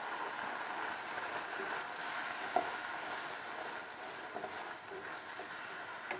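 Ketchup-and-spice masala with fish frying in oil in a pan, a steady sizzling hiss, with a few short knocks, the sharpest about two and a half seconds in.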